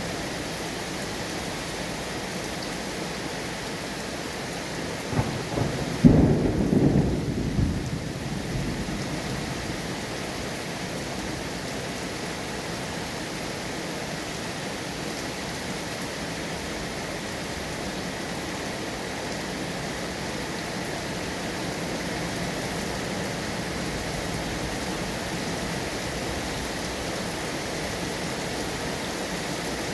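Steady heavy rain, with a clap of thunder about six seconds in that rumbles on and fades over the next two seconds.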